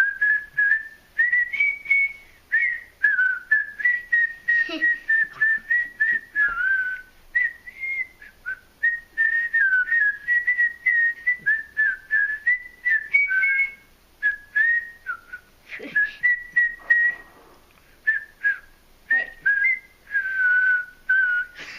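Two people mouth-whistling together in quick, chirpy phrases of short notes and little slides, imitating canary song.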